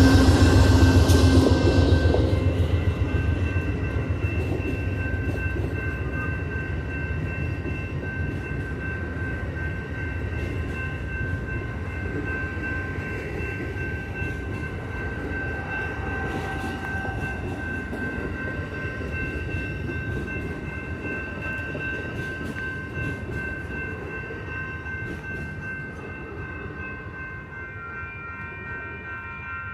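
An Amtrak passenger train passes the crossing, loud at first, then fading steadily as it moves off. The crossing's warning bells ring as a steady tone throughout, with further bell tones joining near the end.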